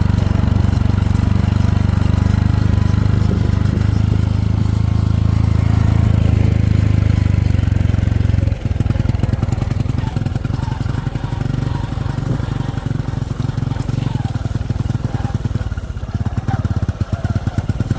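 An engine running steadily, a deep hum. About eight and a half seconds in, its sound suddenly drops and turns rougher and rapidly pulsing.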